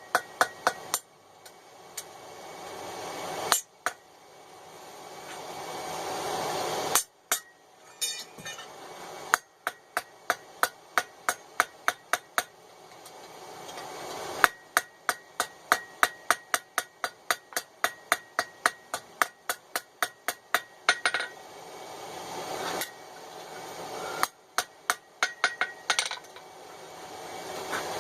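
Blacksmith's hand hammer peening a hot 1/4 inch rivet on a small pair of forged tongs against the anvil, in quick runs of about three to four ringing blows a second. Between the runs a noise swells for a couple of seconds and breaks off.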